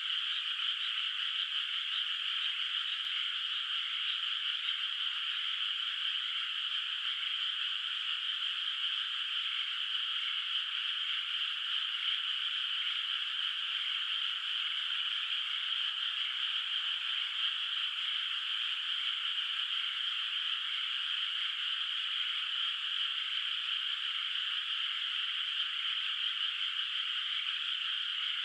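A dense chorus of frogs calling from a flooded rice paddy: many overlapping calls merging into one steady, unbroken mass of sound, with no single voice standing out.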